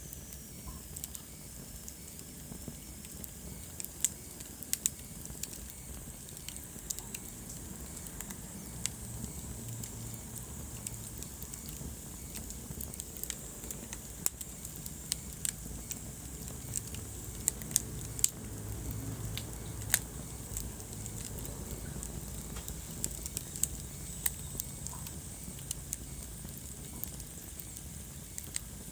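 Wood fire burning in a fireplace, crackling with irregular sharp pops and snaps over a low, steady rumble of flame.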